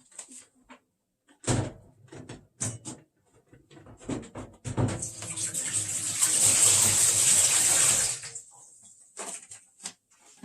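Water running for about three seconds, starting about halfway through and cutting off sharply, with clattering knocks before and after it.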